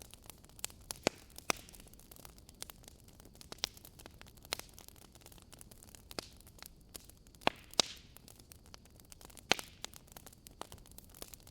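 Wood fire burning in a fireplace: a low steady hiss with irregular crackles and sharp pops from the burning logs, the loudest few coming around 1.5 s and between 7.5 and 9.5 s.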